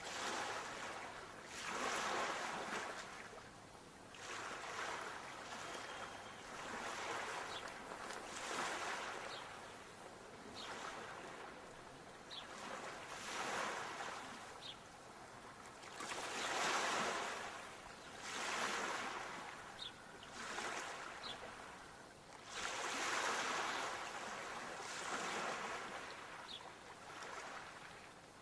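Sea waves washing in and drawing back, a surge of water rising and falling every two to three seconds.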